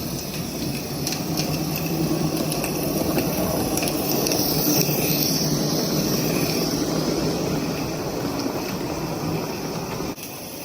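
Two live-steam Accucraft Shay model locomotives running together, a steady hiss and bubbling of steam with a few light clicks.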